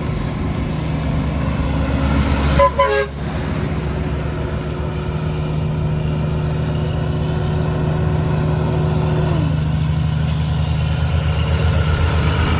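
Heavy truck's diesel engine running steadily under engine braking on a steep descent. About two and a half seconds in, a horn gives two short toots.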